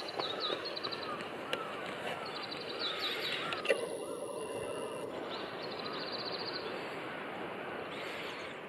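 Wild birds calling over a steady outdoor background hiss: a string of short rising-and-falling notes through the first three seconds, and high trilling calls that come and go.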